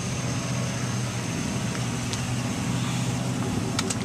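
Steady low hum of an idling vehicle engine, with a faint high whine over it and a few light clicks near the end.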